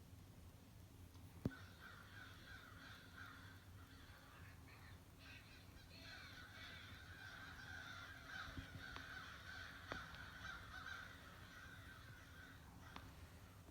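A large flock of crows cawing, many calls overlapping into a faint continuous chorus that thins out near the end. There is one sharp click about a second and a half in.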